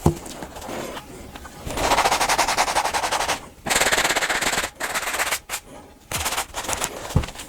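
Soft-bristle brush scrubbing a Nike Air Presto sneaker with soapy water: bursts of rapid back-and-forth strokes about a second long, with short pauses between them. A short knock near the start and another near the end.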